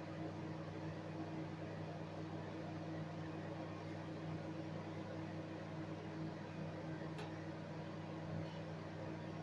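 Saturn ST-MW7179 microwave oven running with a steady hum, with one faint click about seven seconds in.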